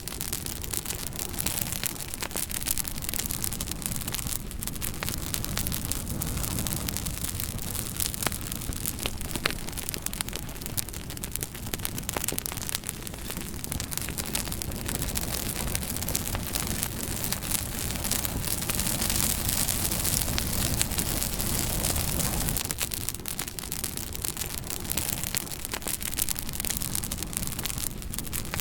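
Campfire burning, with constant crackling and popping over a steady low rumble.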